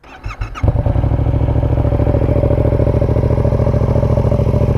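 Yamaha MT-07's parallel-twin engine cranked on the electric starter, catching after about half a second and settling into a steady idle with a low rumble. It breathes through an SC Project Conic 2-in-1 exhaust with the baffle in.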